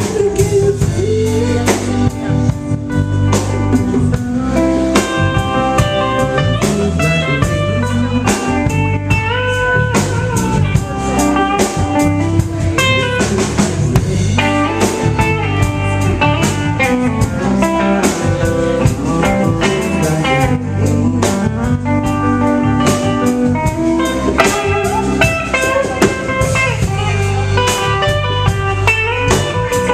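Blues band playing an instrumental break with no singing: a guitar carries the lead melody, with sliding notes, over a drum kit keeping a steady beat.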